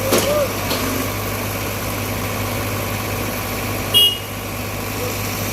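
Heavy diesel machinery engine idling steadily, with a sharp click just after the start and a brief high-pitched squeak about four seconds in.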